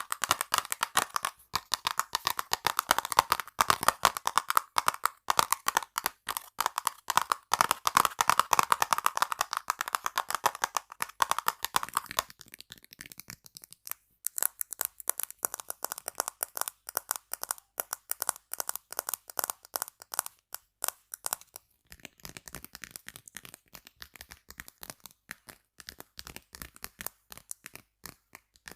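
Fast, continuous ASMR tapping on hard objects, many taps a second. The first object rings with a clear tone under the taps; about twelve seconds in the tapping moves to a duller, drier object, and it changes item again about twenty-two seconds in, becoming quieter.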